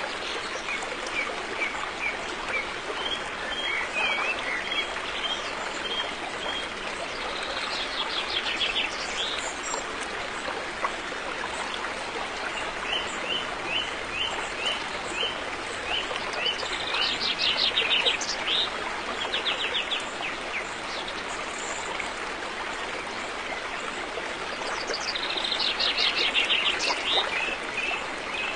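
River water flowing steadily, with wild birds calling over it: runs of short repeated chirps and three fast, rattling trills, the loudest about two-thirds of the way in.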